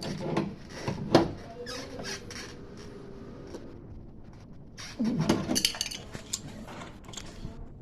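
Scattered clicks, clinks and light knocks of tools and small metal parts being handled, with a denser clatter about five seconds in.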